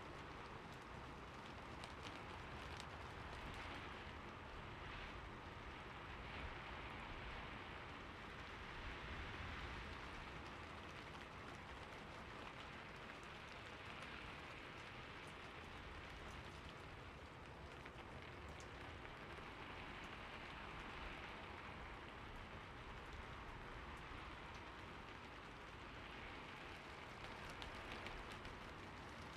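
Steady rain falling on a surface, an even hiss of many small drop ticks that swells gently now and then.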